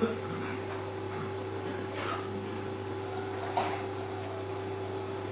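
Steady hum with a faint higher steady tone over hiss, the background noise of a low-fidelity recording. Two faint brief sounds come about two and three and a half seconds in.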